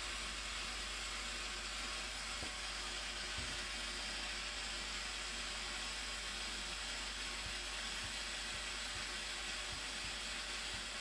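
Steady rushing roar of the Blue Nile Falls, an even wash of falling water with no change in level.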